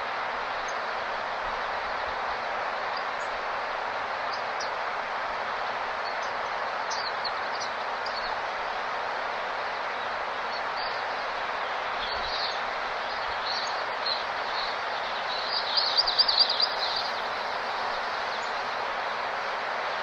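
Small birds calling in short, high chirps scattered over a steady rushing background noise, with a louder burst of rapid twittering late on.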